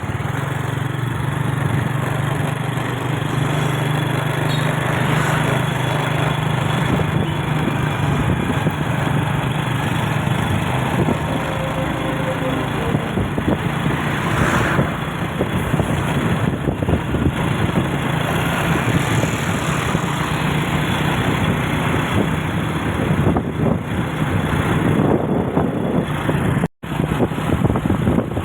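A vehicle engine running steadily under way, with road and wind noise, the sound cutting out for an instant near the end.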